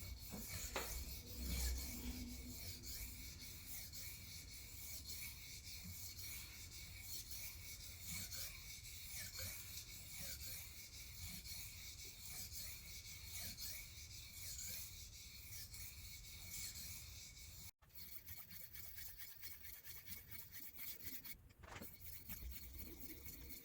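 Knife blade being sharpened: repeated scraping strokes of steel against a sharpener, with a brief break about three quarters of the way through.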